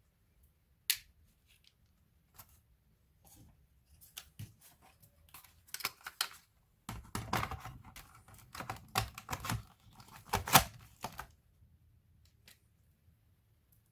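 Small clicks and taps of plastic laptop parts being handled: a single sharp click about a second in, then a dense run of clicks and rattles in the second half.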